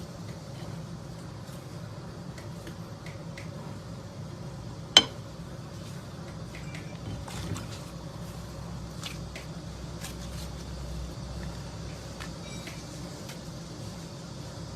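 Slime being handled and worked, with small sticky clicks and squishes, one sharp click about five seconds in, over a steady low hum.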